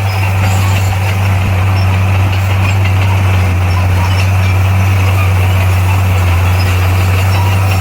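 Komatsu bulldozer's diesel engine running steadily with a deep, unbroken drone.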